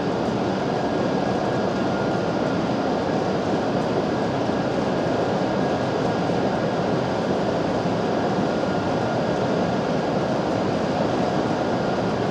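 E7 series Shinkansen standing at the platform with its doors open, its on-board equipment running with a steady, even hum and rush.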